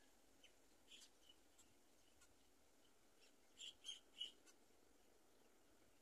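Faint, short, high bird chirps over a low steady hiss, with three louder chirps in quick succession about three and a half seconds in.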